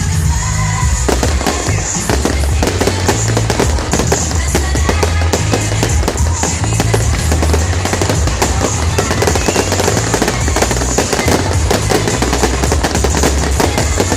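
A fireworks display: a dense, rapid run of bangs and crackles starting about a second in, over loud music with a steady bass line.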